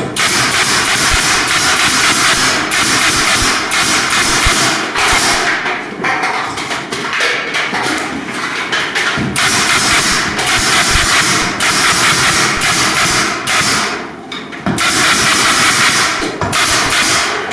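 Pneumatic stapler firing again and again, driving staples through gypsum board into the ceiling framing, over a loud steady hiss that breaks off briefly several times.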